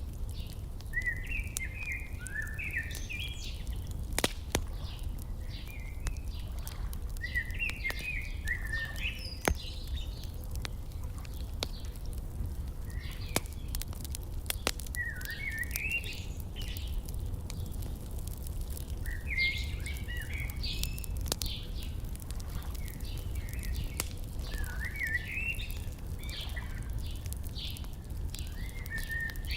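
Wood fire crackling, with sharp pops every so often, under songbirds singing short warbling phrases every few seconds, over a steady low rumble.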